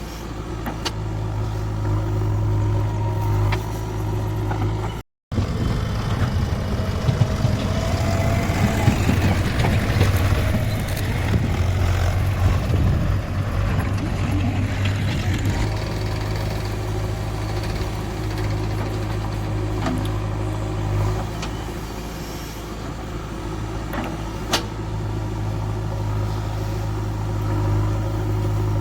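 Diesel engine of heavy farm or earthmoving machinery running steadily under work. About five seconds in the sound cuts out for a moment, then comes back rougher and louder for about ten seconds before settling to a steady run, with a sharp click near the end.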